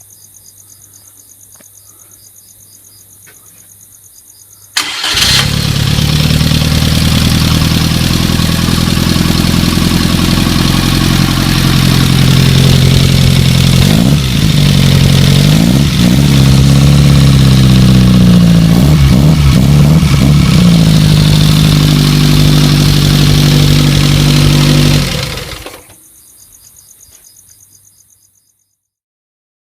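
Rebuilt 903cc four-cylinder engine of a 1970 Fiat 850 Coupe, with a racing exhaust, starting about five seconds in and catching almost at once on a dry test run. It idles loudly and steadily, is revved up and down a few times midway, and is switched off a few seconds before the end. Crickets chirp faintly before it starts and after it stops.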